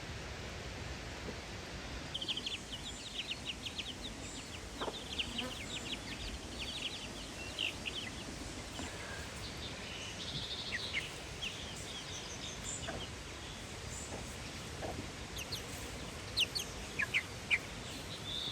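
Birds chirping: many short, high chirps in quick runs over a steady low background hum.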